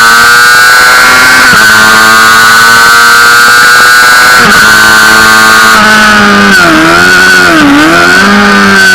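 Honda CBR600RR's inline-four engine at high revs, heard on board over wind noise. The note holds high with brief breaks about a second and a half and four and a half seconds in, then the revs fall and rise twice near the end.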